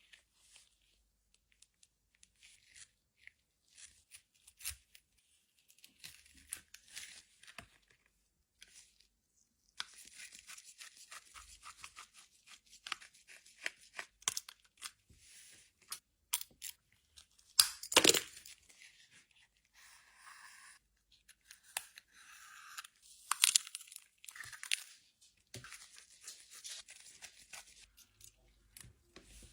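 Close-up handling of a phone under repair: irregular scratching, peeling and tearing noises with many small sharp clicks, and a couple of louder cracks, the loudest about eighteen seconds in.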